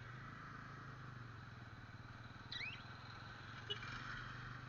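Faint, steady low engine hum, with a bird's short rising call about halfway through and a small click shortly after.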